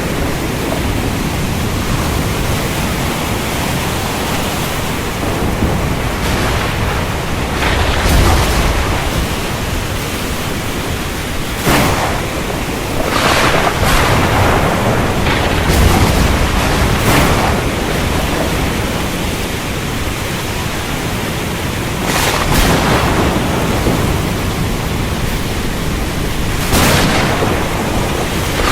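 Steady heavy rain, with thunder breaking through it: several sharp cracks and a few deep rolling rumbles.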